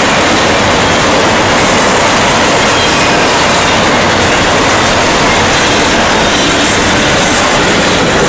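Intermodal freight train's flatcars, loaded with trailers and containers, rolling past. Steel wheels run on the rails in a loud, steady rush of noise.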